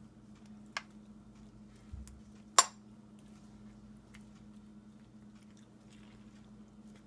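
A fork stirring an egg mixture in a dish, clinking against the dish a few times, with one sharp clink about two and a half seconds in.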